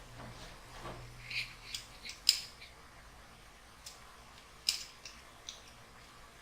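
A series of sharp metallic clicks and snips, about eight in all, with the loudest about two seconds in and another near five seconds: plumbing tools and copper fittings being handled.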